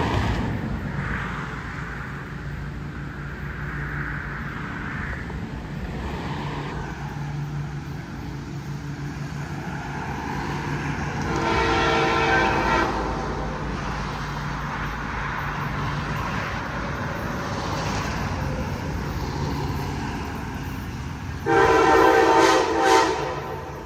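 A train rumbles steadily and sounds its multi-tone horn twice: a blast of about a second and a half about halfway through, and a longer blast near the end.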